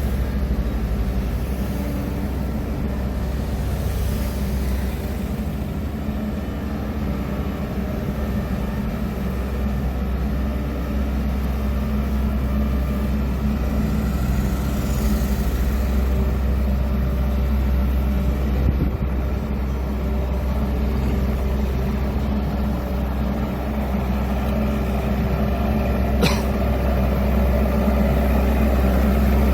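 Heavy construction machine's diesel engine running steadily with a deep, even hum. A single sharp click comes near the end.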